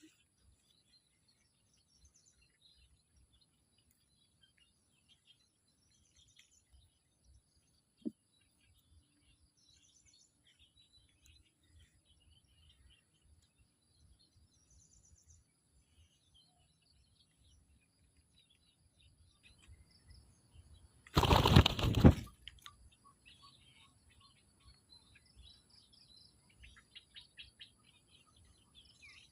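Faint high chirps of small birds throughout, with a single click about eight seconds in. About three-quarters of the way through comes a loud flurry of wing flaps lasting about a second.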